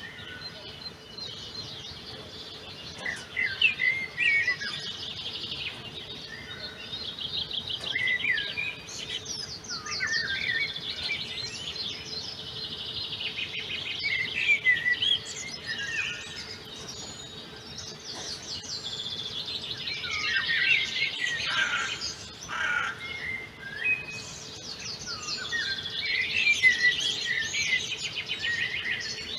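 Several birds singing at once: overlapping chirps, rapid trills and short whistled phrases with no break, over a faint steady hum.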